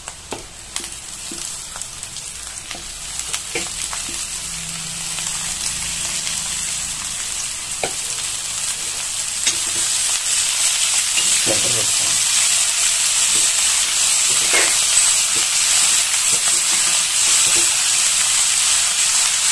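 Chopped ponnaganti (sessile joyweed) leaves frying with sliced onion in oil in a kadai, sizzling steadily and growing louder from about ten seconds in. A steel ladle stirs the leaves, clicking and scraping against the pan now and then.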